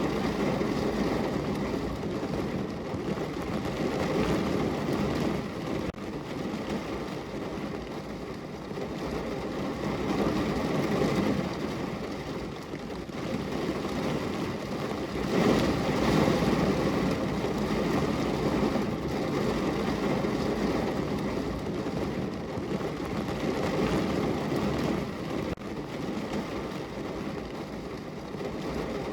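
Heavy rain drumming on a car's roof and body, heard from inside the cabin as a dense, steady rumble that swells heavier for a few seconds around the middle.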